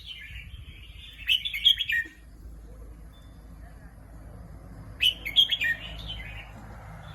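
Red-whiskered bulbul singing: two short bursts of quick, chirpy phrases, about a second in and again about five seconds in, over a low steady rumble.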